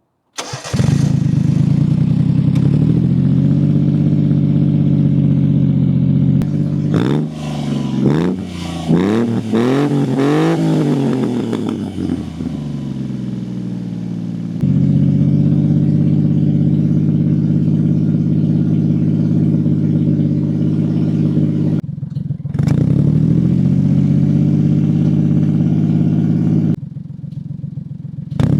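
1997 Honda Acty kei truck's 660cc three-cylinder engine running through an aftermarket exhaust, mostly held at a steady speed. About seven to twelve seconds in it is revved several times in quick succession, and near twenty-two seconds it dips and picks back up.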